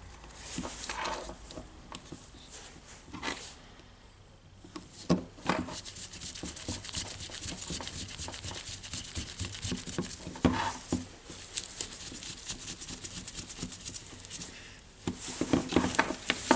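Hand work on a Makita DHR202 hammer drill's switch wiring: small clicks, taps and scrapes of a screwdriver and parts, with a long run of quick fine clicking through the middle as the wire terminals are fastened.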